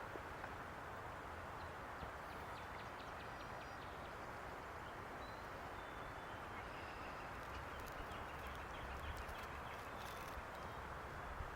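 Quiet outdoor ambience: a steady background hiss with faint, brief bird chirps and a few light clicks scattered through it.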